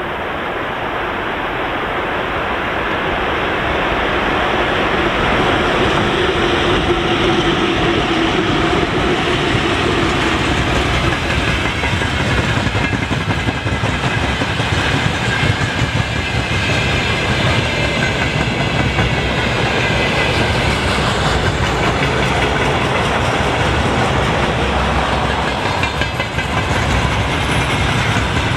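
Freight train behind a VL11 electric locomotive passing close by, its wheels clattering over the rail joints. The sound builds over the first few seconds, then holds steady and loud.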